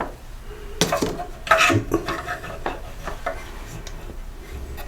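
Hand tools and small metal engine parts clinking and tapping as they are handled, in several separate light knocks spread over a few seconds.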